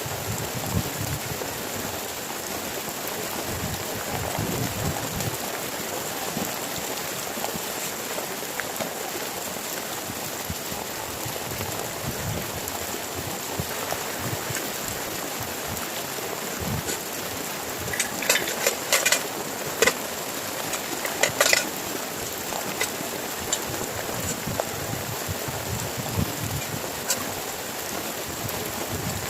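Heavy rain falling steadily, with a flurry of sharp clicks and taps about two-thirds of the way through.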